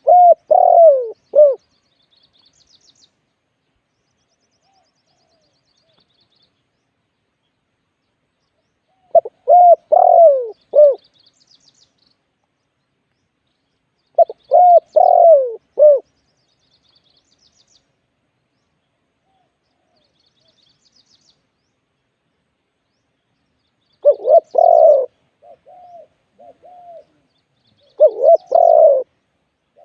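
Spotted dove cooing: five phrases of a few low, falling coo notes, each a second or two long and spaced several seconds apart. Faint high chirping of small birds sounds between the phrases.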